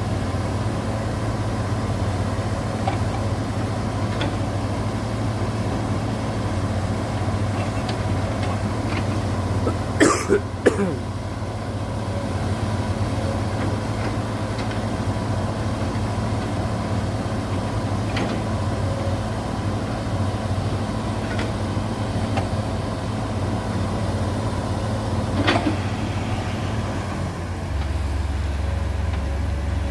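Heavy diesel engines running steadily, with a sharp metallic clank or squeal about ten seconds in and a smaller one near the end.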